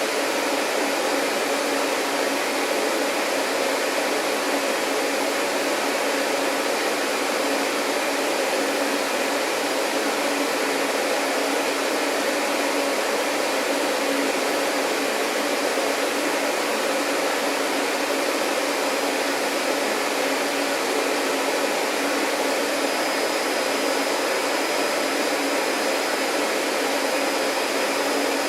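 Vacuum cleaner running steadily, a constant motor hum under a wide rush of airflow; a faint high whine joins about two-thirds of the way through.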